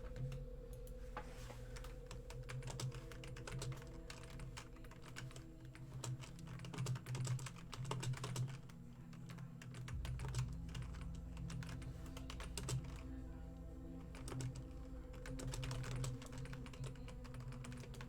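Rapid, irregular typing on a computer keyboard, over quiet background music.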